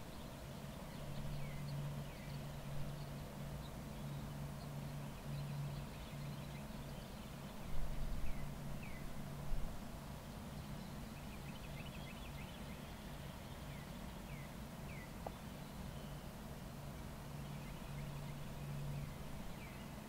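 Small birds chirping in short quick notes, over a steady low hum. About midway, two brief low rumbles of wind buffet the microphone.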